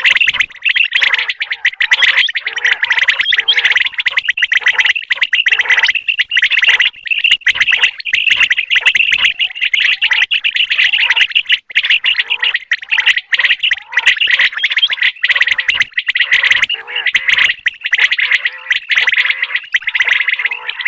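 Common quail calling: a dense, unbroken run of rapid high chirps and trills.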